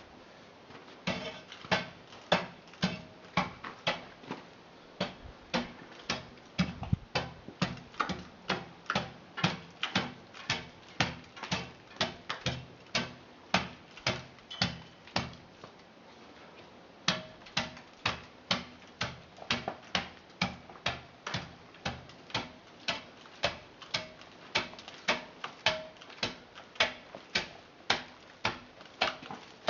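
Regular sharp clicks or taps, about two a second, with a short pause about sixteen seconds in.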